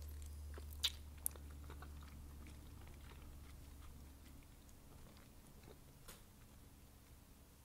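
Chewing of thick, chewy wide glass noodles: faint wet mouth clicks and smacks, with two sharper clicks about a second in.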